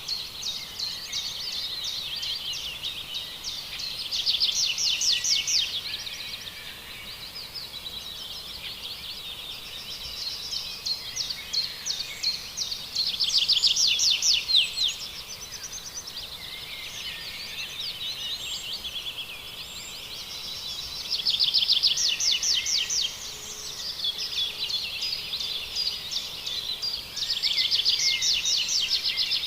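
Wild birds calling in a continuous chorus of high chirps. Four times, a louder rapid trill of quick repeated notes stands out for about two seconds.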